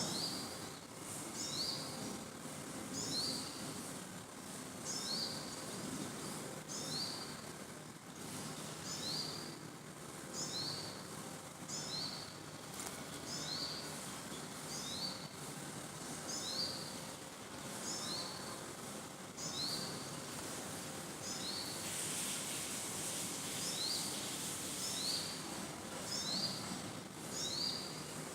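A bird calling over and over, a short high two-part note about once a second, over steady outdoor background noise.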